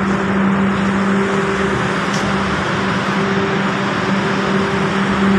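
Sawmill machinery running, a steady loud mechanical hum over dense, even noise with no change in speed.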